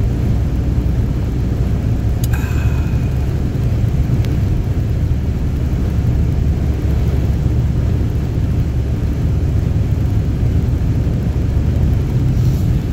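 Steady low rumble of a car on the move, heard from inside the cabin: engine and road noise. There is one brief click about two seconds in.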